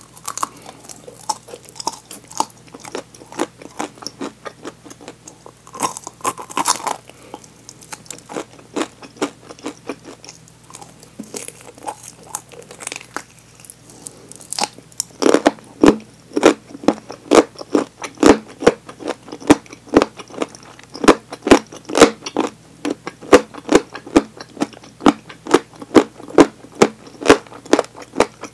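Biting into and chewing a crisp fried chicken drumstick: scattered crunches and mouth clicks at first, then from about halfway through steady, loud chewing at about two chews a second.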